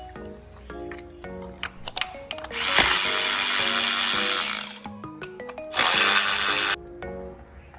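Background music with melodic notes, broken by two loud bursts of hissing power-tool noise: one about two seconds long, then a shorter one of about a second.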